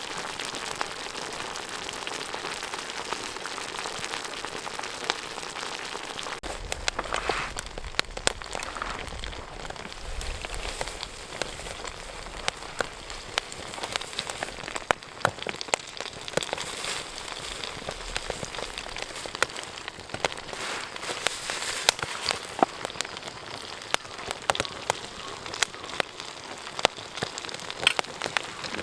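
Wood campfire crackling: a steady hiss with many sharp, irregular pops.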